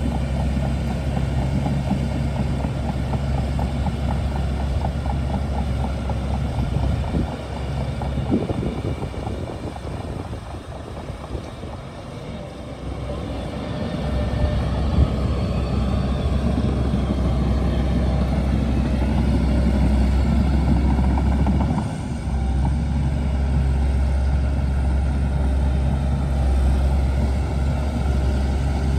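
Shantui DH17C2 bulldozer's diesel engine running steadily. It drops lower and quieter for several seconds near the middle, then comes back up to full power.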